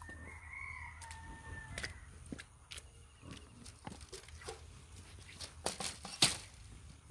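A rooster crows once near the start, a single held call lasting under two seconds. It is followed by footsteps and scattered knocks, the sharpest about six seconds in.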